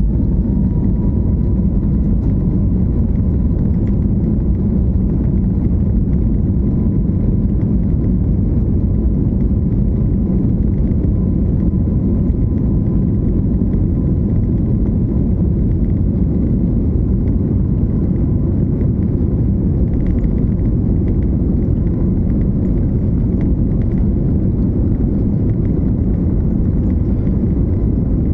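Jet airliner's engines at take-off thrust: a steady, loud rumble with a whine that rises briefly at the start and then holds on one pitch.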